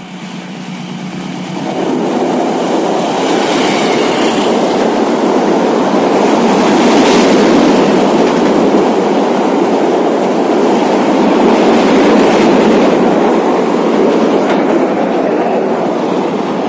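Diesel-hauled passenger train crossing a steel truss railway bridge: a loud, steady rumble of wheels on rails and bridge, building about two seconds in and easing slightly near the end.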